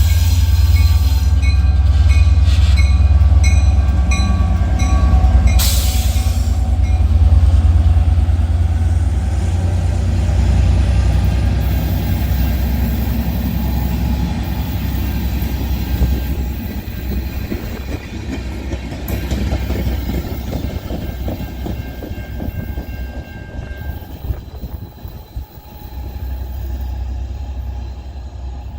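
Diesel train passing close by. A heavy low locomotive rumble gives way after about ten seconds to the clatter of cars rolling over the rails, slowly fading.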